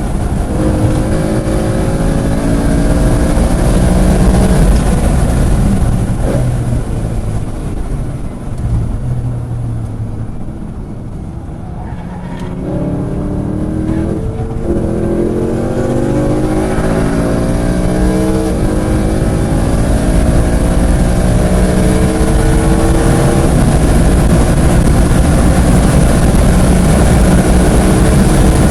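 Race car engine heard from on board, accelerating hard with its pitch climbing through the gears. About eight seconds in it drops back and quietens, the driver easing off or braking for a corner. It then picks up again with rising sweeps as it shifts up, and holds steady at high revs over road and wind noise to the end.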